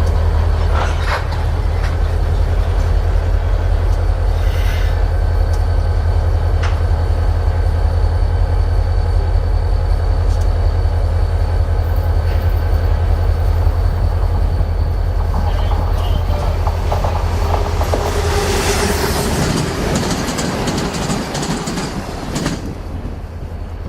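A train rolling past: a steady heavy low rumble with scattered wheel clicks and a faint thin squeal. After about 19 s the rumble drops away into a loud rushing noise that stops sharply near the end.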